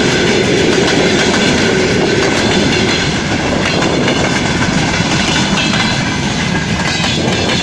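Railway cars rolling past close by: a steady loud rush of wheel and rail noise with the clickety-clack of wheels over rail joints.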